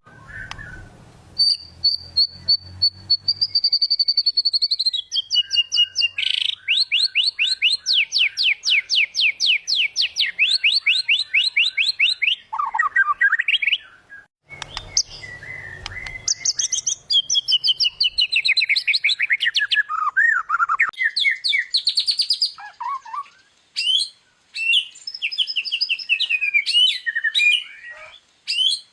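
White-rumped shama singing a long, varied song. It opens with a long high whistle, then rapid runs of repeated notes, then a string of varied whistled phrases that glide up and down, with a short break about halfway through.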